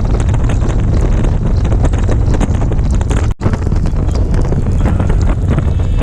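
Motorcycle at road speed: a steady, loud rush of wind buffeting the microphone over the engine's drone. It drops out abruptly for a moment a little past halfway.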